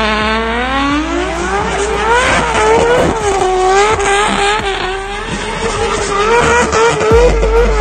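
Nissan RB-series straight-six revving hard during a burnout: the revs climb over the first two seconds, then are held high with repeated small dips and rises as the throttle is worked, over the hiss and squeal of spinning tyres.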